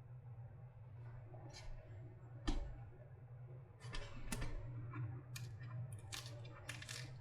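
Hands working on a battery pack and its tools during disassembly: irregular clicks, knocks and short scrapes over a steady low hum.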